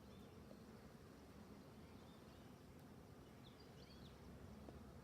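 Near silence: faint low outdoor background noise with a few faint, short bird chirps, several together about three and a half seconds in.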